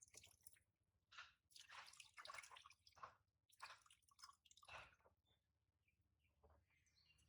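Faint water dripping and splashing during a baby monkey's warm-water bath: a series of soft wet sounds over the first few seconds, then near silence.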